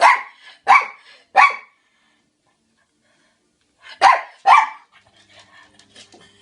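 Shih Tzu barking: three sharp barks in quick succession, then a pause, then two more about four seconds in. The dog is barking in protest at the washing machine that holds its toys.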